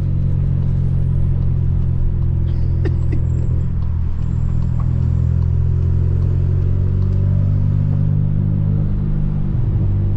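Volkswagen Polo GTS's 1.4 turbocharged four-cylinder, Stage 2 tuned and fitted with a sports exhaust, running at steady revs with a low, even drone.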